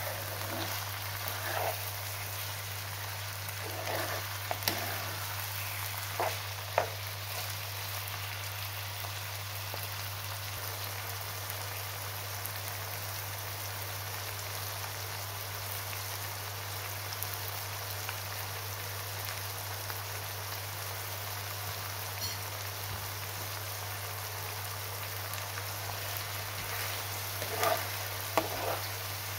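Lamb liver, onions and green chillies sizzling steadily as they fry in oil in a non-stick pan, over a steady low hum. A spoon knocks and scrapes against the pan a few times in the first seven seconds and again near the end as the food is stirred.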